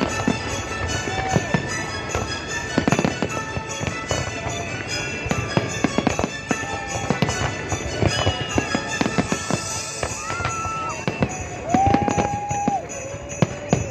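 Fireworks display: rapid bangs and crackling bursts one after another, with music playing underneath.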